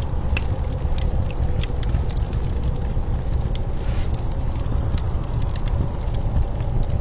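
A blizzard wind as a steady low rumble, with scattered sharp crackles and pops of a wood fire over it.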